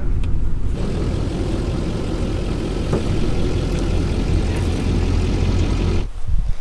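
A vehicle on the move, its engine running as a steady low rumble under a rushing noise. The rushing noise drops away suddenly about six seconds in.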